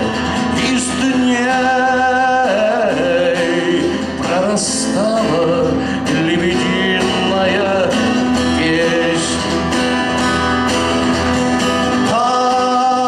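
A voice singing a slow song to guitar accompaniment, holding long notes.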